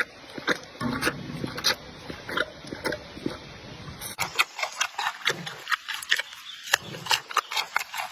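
Giant panda chewing bamboo: a run of sharp, irregular crunches and snaps, several a second, as the stalks are bitten and split. The background changes abruptly about four seconds in.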